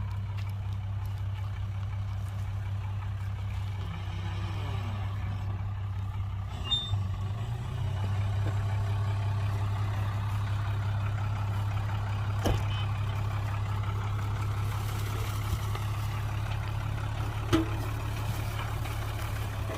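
Diesel engine of heavy earthmoving machinery running steadily with a low drone, picking up slightly about eight seconds in. A couple of sharp metallic knocks sound near the middle and toward the end.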